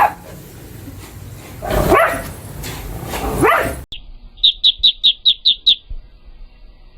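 Two short rising animal calls about a second and a half apart. After an abrupt cut comes a quick run of about eight short, high chirps.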